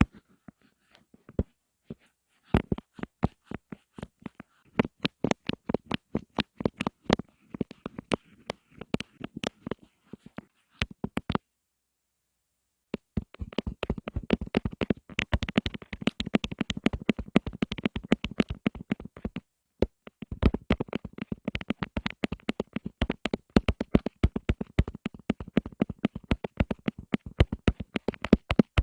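ASMR tapping: sharp, close-up taps, spaced out at first, then after a pause of about a second and a half turning into fast, continuous tapping that breaks off only briefly once.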